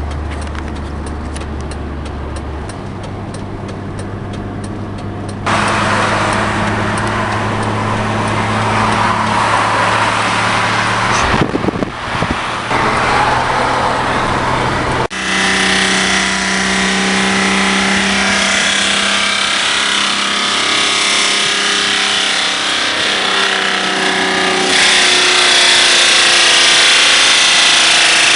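BMW 524td's straight-six turbodiesel running with a blown turbocharger. The sound changes abruptly several times.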